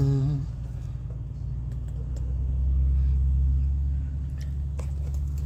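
Vehicle engine running with a steady low rumble, swelling louder for a couple of seconds about halfway through, then easing back.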